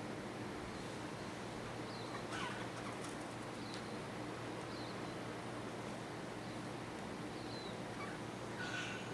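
Several short bird calls, scattered, with the loudest ones about two seconds in and near the end, over a steady background hiss.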